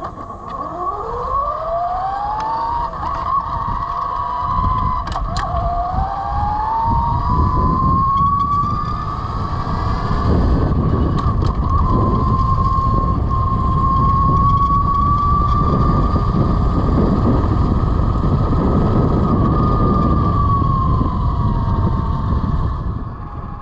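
Velimotors VMX12-F electric motorcycle's 12 kW motor whining under acceleration: the pitch climbs steeply, dips about five seconds in, climbs again and then holds steady at cruising speed, easing down near the end. Wind rush on the microphone builds as the speed rises.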